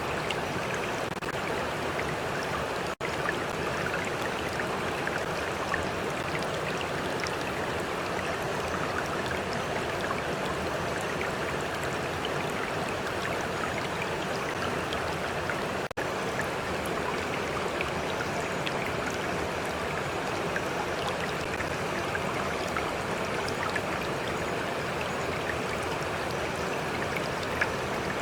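Steady rush of a flowing stream, with small trickles and splashes of water on top. The sound drops out for a split second about three seconds in and again about sixteen seconds in.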